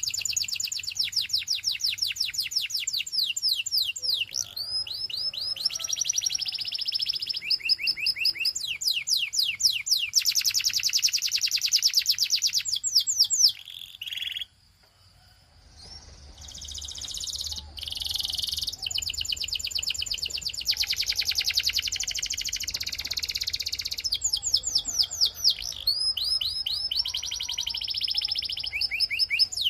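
Canary singing a long song of fast trills, runs of rapidly repeated high notes and sliding whistles. The song breaks off for about a second and a half halfway through, then starts again.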